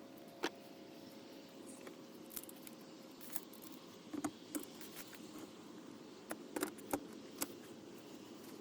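Scattered light clicks and knocks, in a few short clusters, over a faint steady hum.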